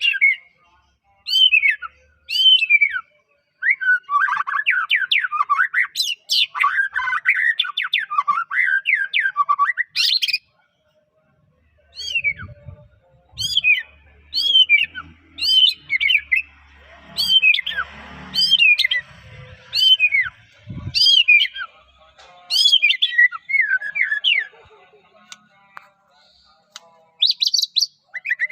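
White-rumped shama (murai batu) singing: loud, clear whistled phrases of falling notes, with a long rapid warbling run early on that breaks off near ten seconds, then more separated whistles and a quick trill at the end.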